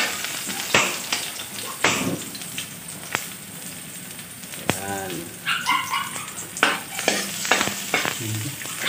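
Sliced garlic and onion sizzling in hot oil in a stainless-steel wok, with a metal spatula scraping and knocking against the pan every second or so. A brief whining call, like a dog's, comes about halfway through.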